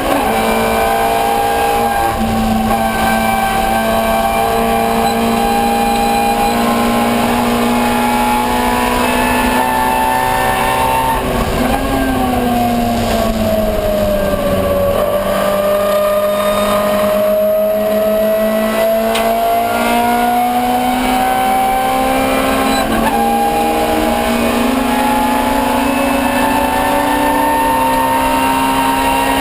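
Ford Escort 1300GT's 1300 cc four-cylinder engine running hard at high, fairly steady revs under racing load. About twelve seconds in the pitch sags over a few seconds, then climbs slowly back up.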